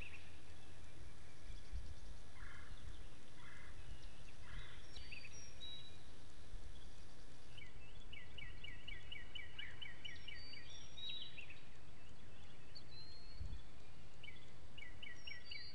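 Garden birdsong: a bird calls a rapid run of a dozen or so repeated notes, lasting about two seconds, once about eight seconds in and again near the end, with short chirps from other birds in between, over a low steady outdoor rumble.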